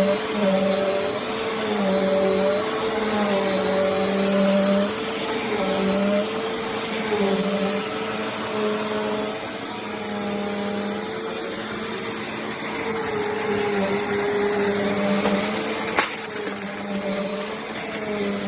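Bissell CleanView Compact upright vacuum running, its motor hum dipping and rising in pitch every second or two over a steady high whine and rush of air. A sharp click sounds near the end.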